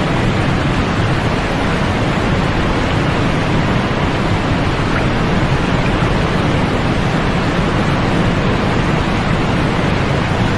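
Steady, unchanging white noise played for sleep: an even hiss, fuller in the lows and fading toward the top.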